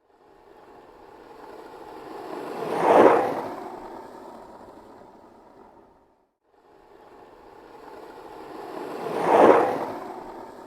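Skateboard wheels rolling past twice: each pass builds from a distant rumble to a loud peak and fades away, with a short silence between the two.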